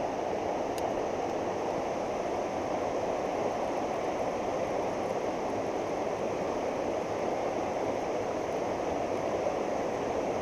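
Steady rush of fast-flowing floodwater in a rain-swollen creek, an even hiss with no breaks.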